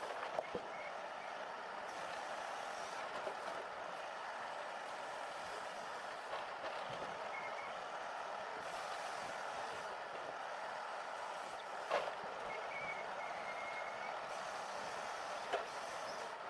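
Volvo FH16 log truck on the move: steady running and road noise, with a few sharp knocks and faint short squeaks.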